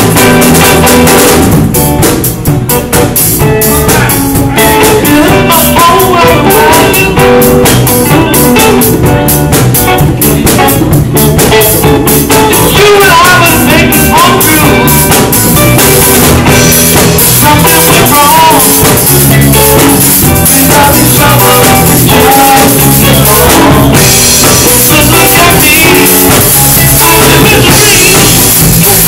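Live band playing loud, steady music: a drum kit keeps the beat under guitar.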